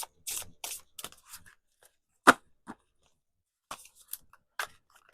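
Tarot cards being shuffled and handled: a run of short, papery riffles and taps, with one sharp slap a little over two seconds in.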